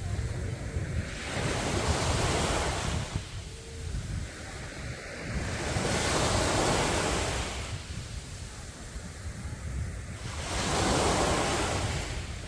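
Sea waves breaking and washing up a beach, the surf swelling and fading three times, about every four to five seconds. Under it runs a steady low wind rumble on the microphone.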